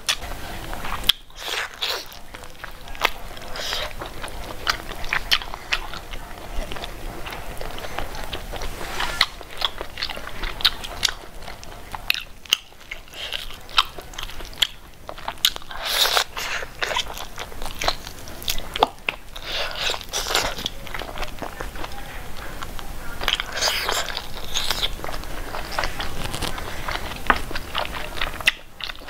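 Mouth-eating sounds of someone chewing handfuls of pork and rice: wet chewing and crunching with many small clicks and smacks, in denser spells every few seconds.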